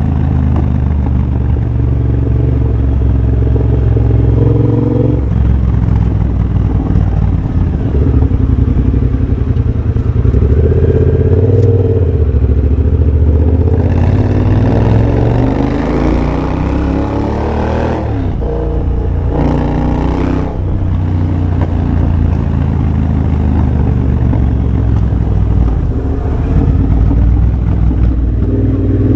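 2023 Triumph Bobber's 1200 cc parallel-twin engine through a de-catted X-pipe and Motone Shorty exhaust, running on the move at fairly steady throttle. About halfway it revs up, rising in pitch for several seconds, then cuts back sharply twice.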